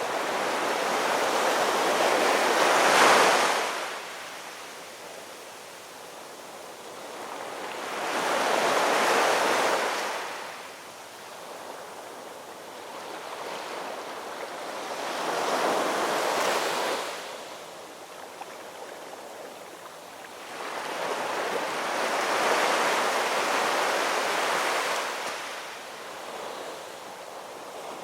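Ocean waves breaking and washing up on a shore, rising and falling in four slow surges roughly every six to seven seconds.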